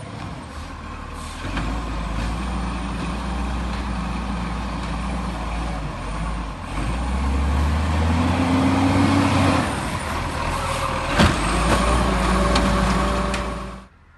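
Garbage truck's diesel engine running and revving up for a few seconds, with one sharp bang near the end; the sound cuts off suddenly.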